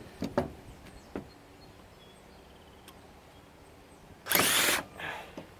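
Cordless drill in low gear trying to back out a torqued-in screw: a few light clicks, then near the end a loud half-second burst as the motor spins up with a rising whine. The bit is jumping out of the screw head.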